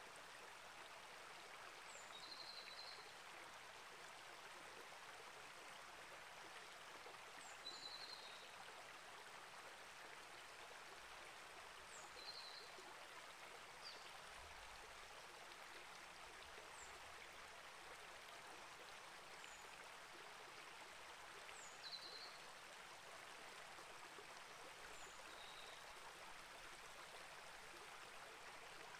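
A small rainforest creek flowing faintly and steadily over rocks. Short, high bird chirps come every few seconds over the water.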